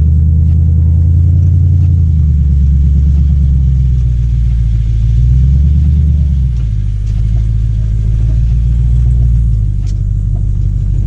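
Mercury Grand Marquis 4.6-litre V8 running with its mufflers removed, the exhaust rumbling loudly; the note drops in steps about six and a half and again about nine and a half seconds in.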